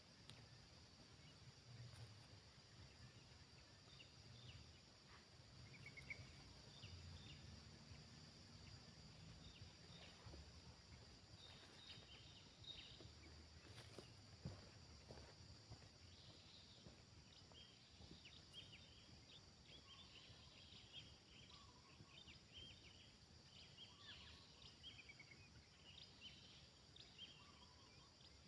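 Near silence: faint natural ambience with scattered short, high chirps of small birds, growing busier in the second half.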